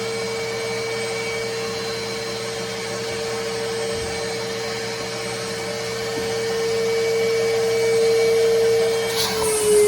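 Vacuum running steadily with a constant motor whine, getting somewhat louder partway through. Near the end its pitch dips slightly, with a brief sharp hiss.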